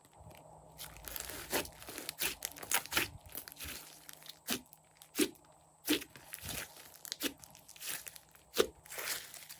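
Slime being squished and worked by hand, giving irregular sticky pops and crackles.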